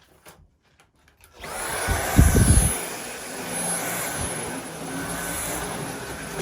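Dyson vacuum cleaner switched on about a second and a half in, then running steadily with a thin high whine. A brief loud low rumble comes just after it starts.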